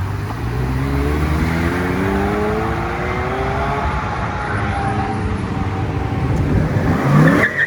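Chevrolet Corvette C8 V8 accelerating away under throttle, its engine note climbing in pitch and climbing again after a shift. There is a loud, sharp rising sound near the end.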